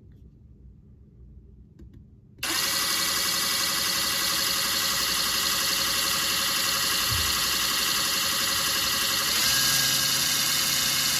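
Ridgid brushless impact driver running free with no load in its lowest speed setting, a steady motor whine that starts about two seconds in. Near the end its pitch and level step up slightly.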